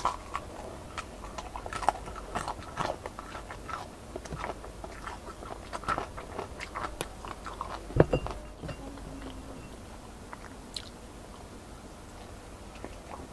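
Crunchy bites and close-up chewing of crispy-skinned fried chicken, with a louder sharp knock about eight seconds in. The crunching eases off for a few seconds before new bites near the end.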